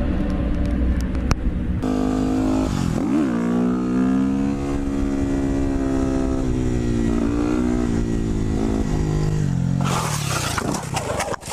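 Motorcycle engine running, its pitch dipping and rising with the throttle, with an abrupt change in the sound about two seconds in. Near the end a loud burst of rough noise breaks in.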